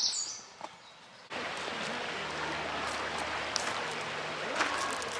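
Steady rush of flowing river water that starts abruptly about a second in, with a few short bird chirps over it.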